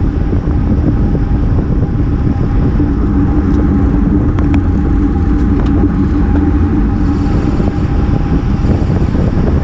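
Steady wind rumble and tyre-on-road noise from a road bike riding at speed in a group, with a steady hum and a few faint clicks around the middle.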